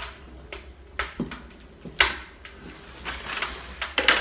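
Stickers being peeled and scraped off a fireplace's heat-resistant glass door: a series of short, sharp scratchy clicks, the loudest about two seconds in.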